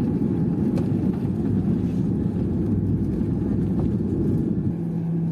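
Cabin noise inside a Boeing 737-800 rolling on the ground after landing: a steady low rumble of engines and wheels, with a steady hum coming in near the end.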